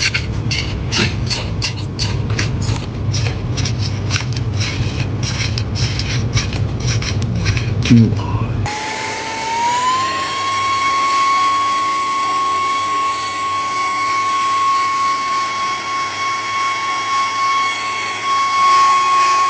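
Quick repeated scraping strokes over a low hum, then a small high-speed electric motor, such as a dust blower, whining as it spins up and holds a steady pitch while clearing dust from a clogged laptop fan.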